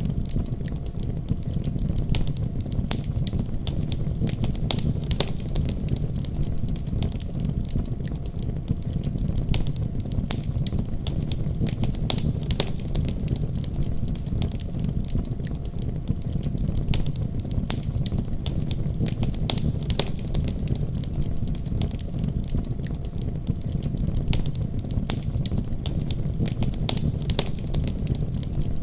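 Wood fire burning in a fireplace: a steady low rumble of the flames with many sharp, irregular crackles and pops of the burning logs.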